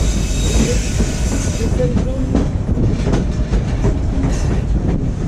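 Narrow-gauge passenger train running on its track, heard from aboard: a steady rumble with a high wheel squeal that fades out over the first second or two, then a run of clicks from the wheels over the rails.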